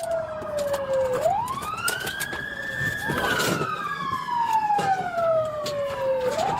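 Police car sirens wailing, two of them overlapping out of step, each rising quickly and falling slowly in a long cycle, with scattered sharp clicks and knocks over them.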